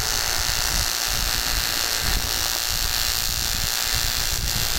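Aluminium TIG welding arc burning steadily, an even buzzing hiss, as weld is laid on to build up a shaft.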